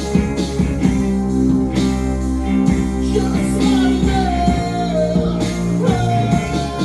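A band playing live on acoustic guitars, with a singer's voice carrying a melody over the plucked and strummed chords.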